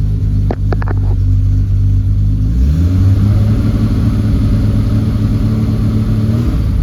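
1968 Triumph TR250's 2.5-litre straight-six running at a fast idle just after a cold start, on a little choke. A few short clicks come in the first second, the idle steps up slightly about two and a half seconds in, and it settles back near the end.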